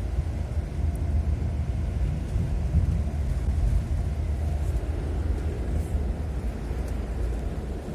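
Rain with a steady, fluctuating low rumble, like wind buffeting the microphone, and a softer hiss above it.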